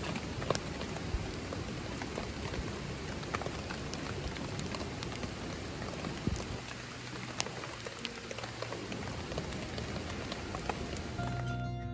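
Steady rain falling, with scattered sharp ticks of drops through it. Plucked-string music comes in near the end.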